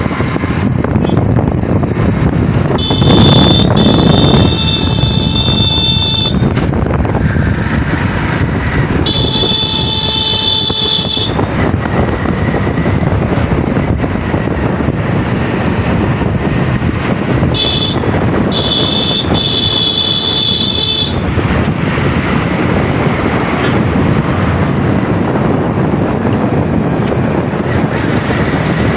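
Road and wind noise from a moving vehicle, with wind buffeting the microphone. A high, steady tone comes in three times over it, each lasting two to three seconds.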